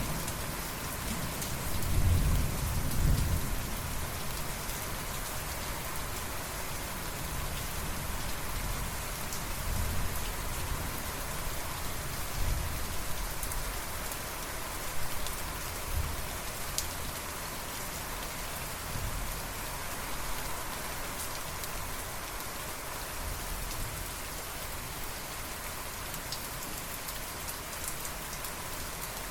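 Steady rain falling, with low rolls of thunder rumbling, strongest a couple of seconds in and fading away later.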